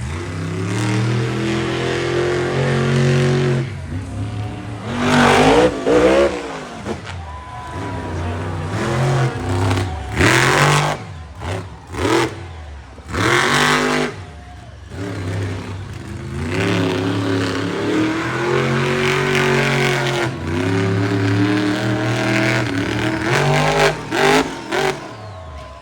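Monster truck's big supercharged V8 revving hard in repeated surges, its pitch climbing and falling as the throttle is blipped, held and dropped. It fires several short, sharp full-throttle blasts.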